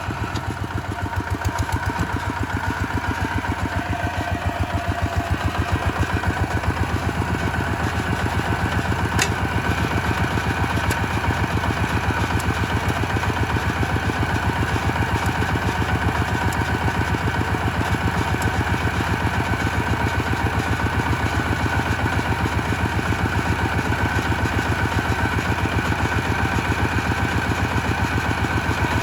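Kubota RT140 single-cylinder diesel engine running steadily under work, with a fast, even exhaust beat. It picks up a little in the first few seconds, then holds.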